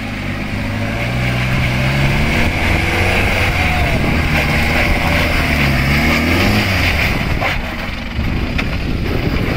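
Off-road SUV engine running under load, its pitch rising and falling twice as it revs, with a steady hiss over it.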